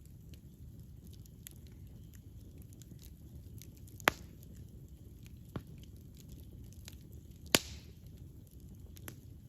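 Wood campfire burning: a low steady noise with scattered small crackles, and two sharp pops about four and seven and a half seconds in, the second trailing a brief hiss.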